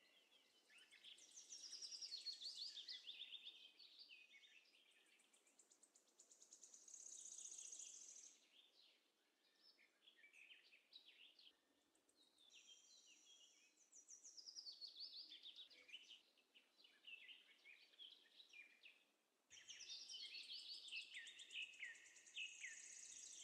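Faint birdsong: small birds chirping and trilling in several overlapping bursts of quick high notes.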